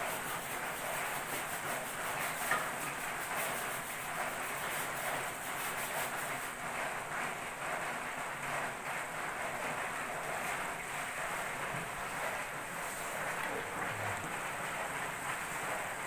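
Bamboo shoots, mushrooms and greens sizzling in a wok over the stove: a steady frying hiss.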